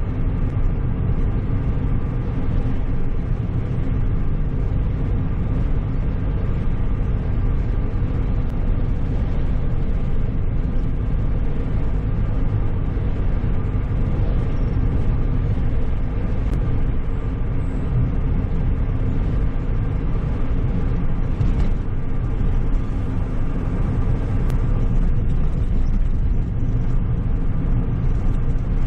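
A car driving at a steady speed: a continuous low rumble of engine and road noise with a steady hum, holding level throughout.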